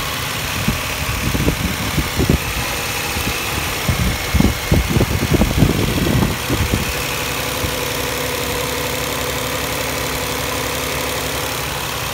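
A 1999 Infiniti I30's V6 engine idling steadily while Seafoam intake cleaner is sprayed into it. Irregular low knocks and thumps come and go from about a second in until about seven seconds in, then the idle runs on evenly.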